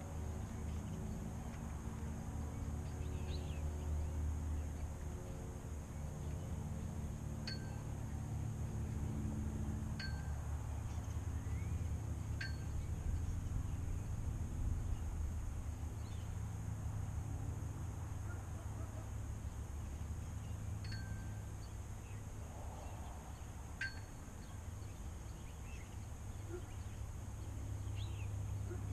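Outdoor residential ambience: a steady low rumble, with a low hum that fades out about ten seconds in. Over it a small bird gives short, sharp, high chirps every couple of seconds, falling silent and then calling twice more near the end.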